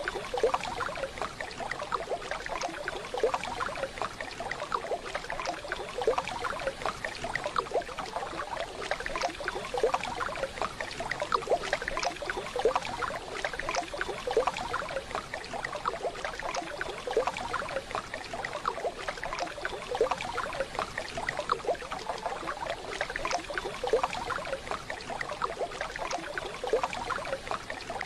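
Waterfall water running steadily, a dense rush broken by many small irregular splashes.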